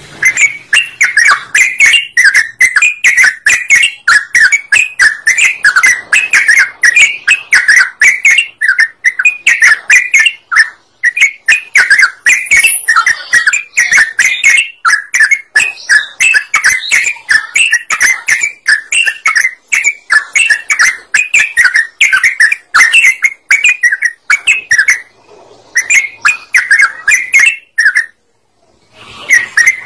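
Yellow-vented bulbul (trucukan) singing loudly and without pause: a rapid run of short, bubbling chirps, broken by two brief pauses near the end.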